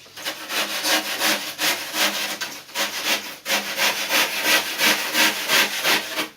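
Hand sanding of cured expanding foam fill on a surfboard: fast, rhythmic back-and-forth rasping strokes, about four or five a second, with a brief pause midway.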